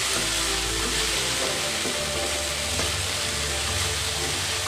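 Diced potatoes frying in mustard oil in a steel wok (kadai) while a spatula stirs them: a steady sizzling hiss.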